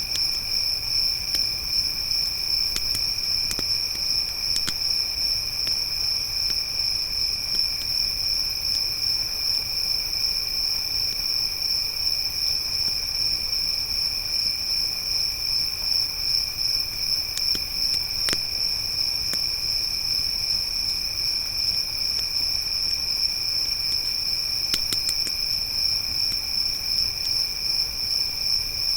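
Crickets chirping in a steady, continuous high trill, with a few sharp pops and crackles of a campfire scattered through it, in small clusters near the start, in the middle and near the end.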